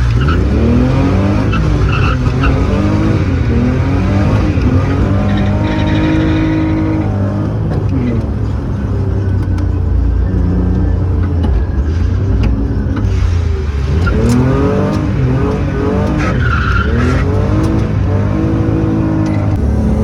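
Car engine driven hard, its pitch climbing under throttle and dropping again at each lift or gear change, over and over, with brief tyre squeal.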